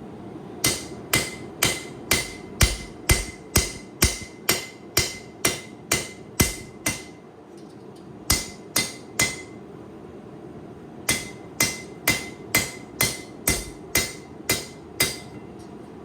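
Blacksmith's hammer striking a hot steel knife blank on an anvil, about two blows a second in steady runs with short pauses between, each blow with a light metallic ring.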